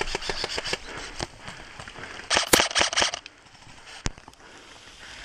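Airsoft guns firing: a quick string of sharp shots, then a louder, dense full-auto burst about two and a half seconds in, and a single shot near four seconds.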